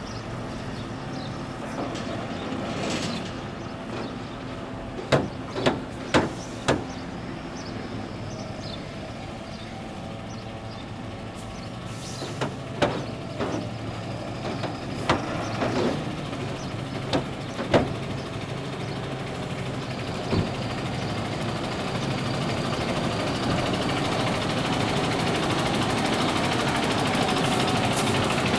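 MAN TGS 32.400 concrete mixer truck's six-cylinder diesel engine running steadily, with a string of sharp knocks in the first two-thirds. The engine sound gradually grows louder toward the end.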